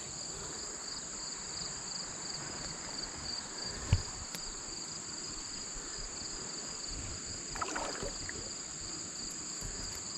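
Steady chorus of summer insects, two shrill high-pitched bands, over a low rush of creek water, with a single knock about four seconds in.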